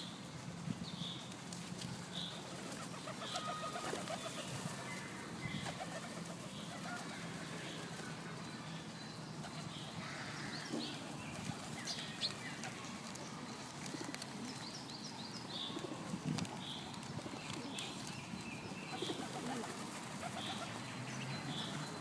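Pigeons flapping their wings and cooing, with a small bird chirping about once a second.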